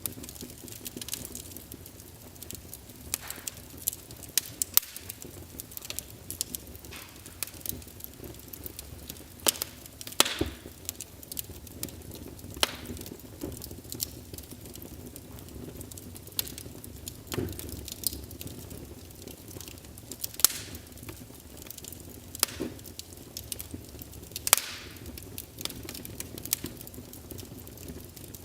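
Small wood fire in a fireplace crackling: irregular sharp pops and snaps every second or so, a few of them louder, over a low steady hiss of the flames.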